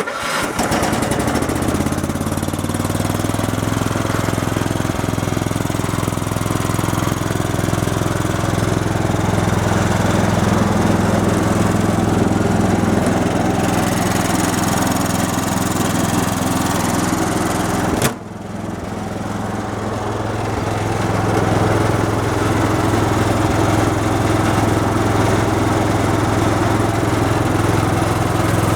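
John Deere 210 garden tractor's single-cylinder Kohler engine starting up and running steadily, in good running order. About 18 seconds in there is a sharp click and the sound drops suddenly, then builds back up over the next few seconds.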